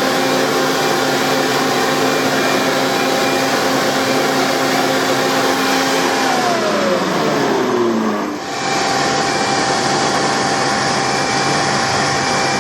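A powered blower running flat out, a steady motor whine over loud rushing air. About six seconds in, the whine slides down in pitch. After a brief dip it settles again into a steady whine with the same rushing air.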